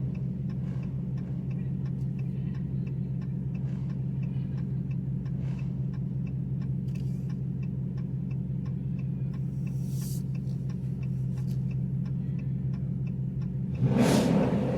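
Car engine idling with a steady low rumble and faint ticking, then a brief louder burst near the end.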